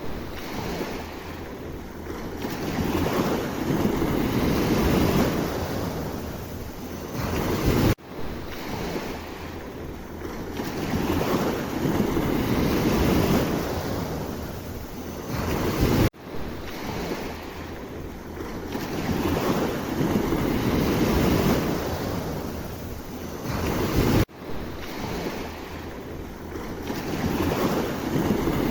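Sea waves surging and washing ashore, swelling and easing every few seconds. The sound drops out abruptly for an instant about every eight seconds, as the same stretch of recording repeats.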